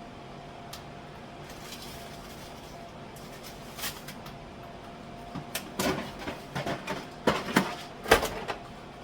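Kitchen groceries and containers being handled and set down on cupboard shelves: a run of knocks and clatters in the second half, the loudest near the end, after a few seconds of faint steady hum.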